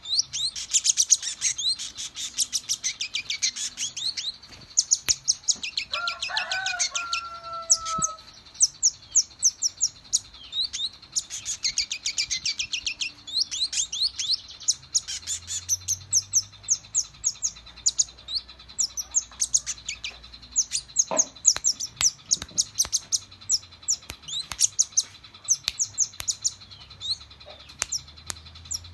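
A songbird singing in full, vigorous song: long bursts of rapid, high chirps and trills with short breaks between them, over a steady high tone. About six seconds in, a lower two-note whistle sounds for a couple of seconds.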